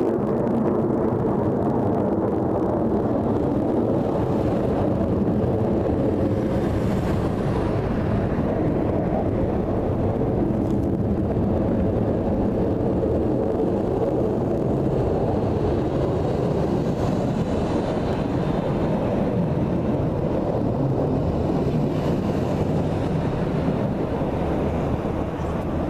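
Aircraft engines making a loud, steady rumble with faint whining tones, and some wind on the microphone.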